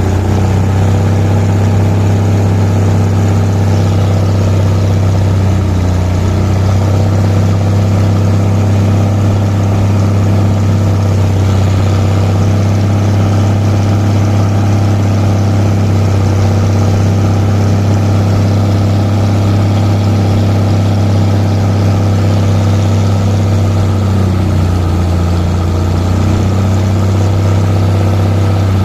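An engine running steadily at a constant speed, its hum shifting slightly in pitch twice.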